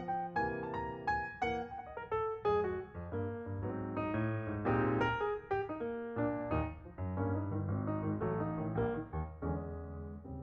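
Background piano music, a melody of quickly struck notes.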